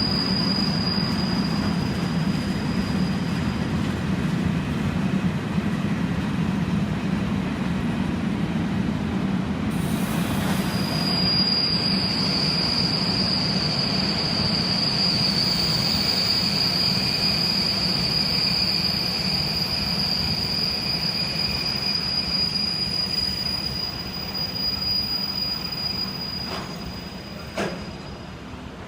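A train rolling along the track with a steady high-pitched wheel squeal that drops out briefly and returns; the sound fades away near the end, with a single short knock.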